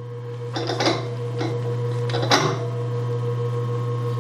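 DoAll 14-inch surface grinder running with a steady hum, with three brief scratchy rasps as a slip of paper is worked between the wheel and the work to find the wheel's height.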